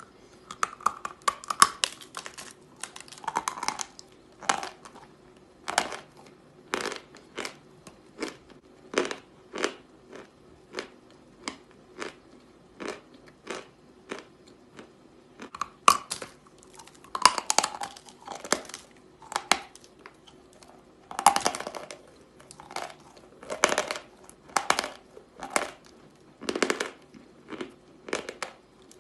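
Pieces of "General Vatutin" edible chalk being bitten and chewed close to the microphone: a run of sharp, dry crunches about one or two a second, tightening into quick clusters of crunching now and then.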